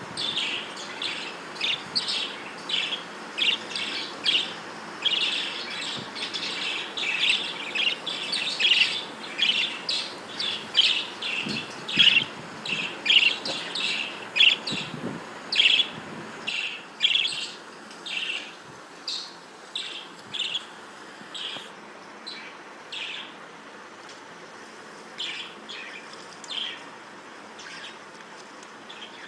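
Budgerigars chirping: a quick, dense series of short high chirps that thins to scattered calls about halfway through.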